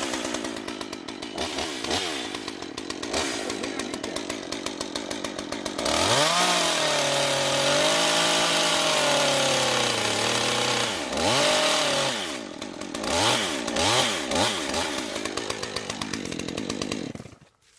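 Chainsaw running and revving repeatedly, its pitch rising and falling with each burst of throttle. It is held at high speed for several seconds in the middle, as when cutting through a tree limb, and cuts off abruptly near the end.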